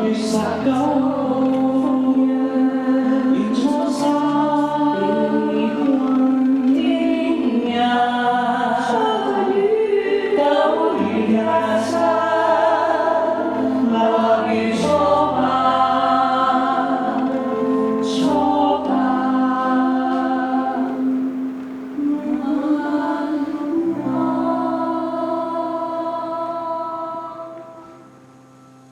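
Choral singing with held, slowly shifting chords, fading out near the end.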